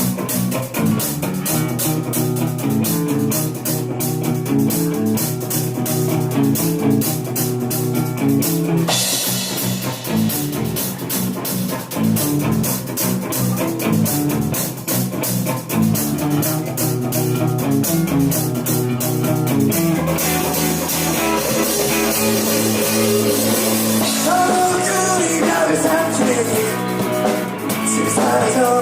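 A rock band's instrumental intro played live: a guitar riff over bass and a busy drum kit. The arrangement changes about nine seconds in and again around twenty seconds.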